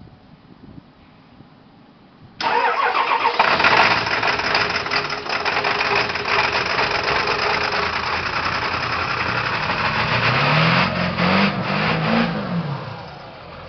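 1995 Ford Power Stroke 7.3-litre V8 turbodiesel cold-starting: it fires abruptly about two seconds in and runs loud and rough. It is revved up and down two or three times near the end, then drops back toward idle.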